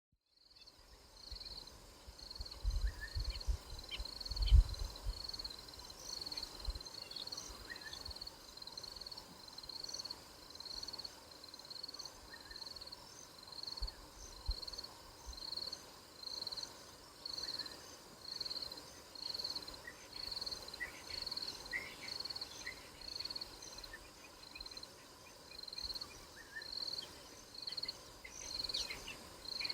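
Bushveld wildlife soundscape: a short high call repeats about once a second throughout, with scattered bird chirps. A few low thumps come in the first few seconds, the loudest about four seconds in.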